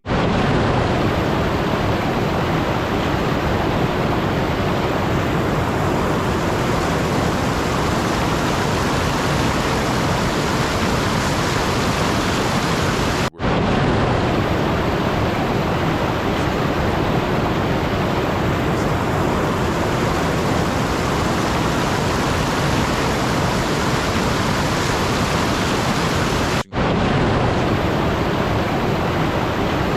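Steady, even rushing noise with no pitch or rhythm in it, spread across the whole range. It drops out for a split second twice, about 13 seconds apart, the mark of a short noise track looped end to end.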